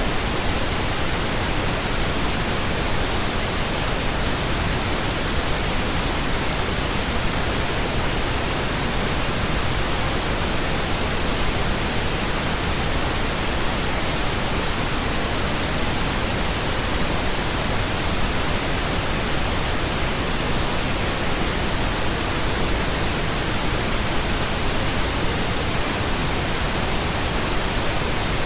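Steady pink noise: an even, unchanging hiss spread across the whole range of pitch, with no events in it.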